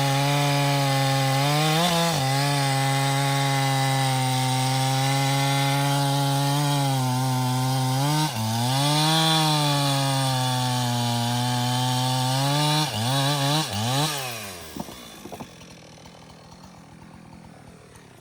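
Two-stroke chainsaw cutting through a hardwood log at full throttle, its engine pitch holding steady with brief dips as it loads in the cut. About thirteen seconds in, the pitch swings up and down a few times before the engine drops back to a low idle.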